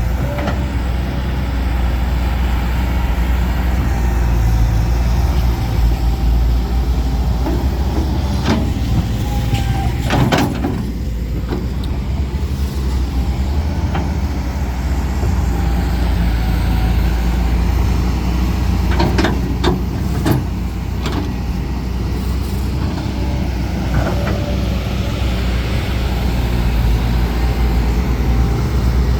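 Heavy diesel earthmoving machinery running steadily, with a few sharp metallic clanks about ten seconds in and again around twenty seconds in.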